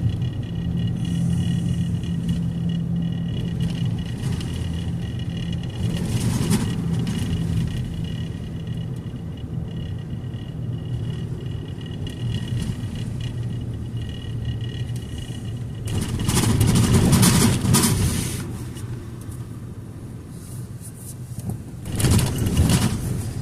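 Car driving: steady engine and road hum, with two louder rushes of noise in the second half, the longer one lasting about two seconds.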